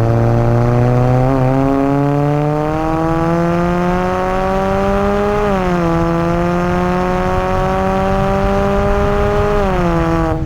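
Honda Accord 1.5-litre turbocharged four-cylinder through a catless downpipe and Thermal R&D exhaust, accelerating under load: the exhaust note climbs steadily in pitch, drops at an upshift about halfway through, then climbs again and drops at another upshift near the end.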